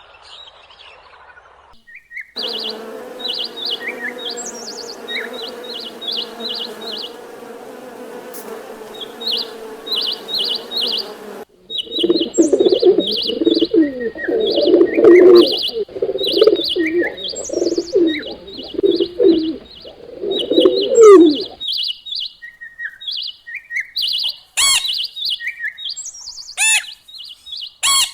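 Birds chirping in quick, high-pitched runs of short calls. Between about twelve and twenty-one seconds, louder, lower calls from larger birds join in.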